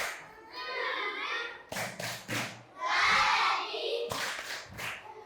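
A class of children doing a clapping cheer: sets of about three sharp claps in unison alternating with short group chants and shouts.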